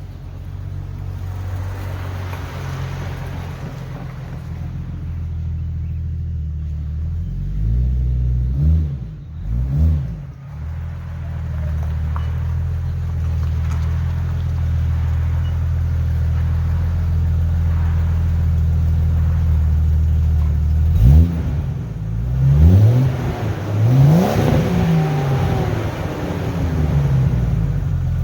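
1999 Jeep Cherokee XJ's 4.0-litre inline-six running steadily through a new Thrush glasspack muffler. The engine is revved twice about eight to ten seconds in, then about four times in quick succession near the end.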